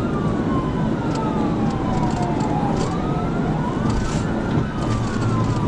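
Police car siren wailing in slow rising and falling sweeps over heavy, steady engine and road noise from a vehicle at high speed.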